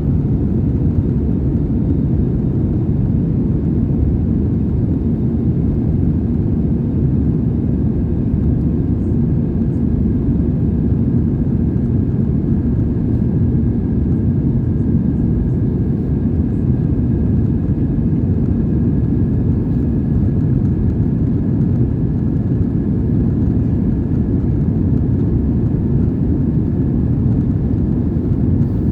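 Steady low roar of an Airbus A320's engines and airflow heard inside the passenger cabin, with a faint steady whine above it.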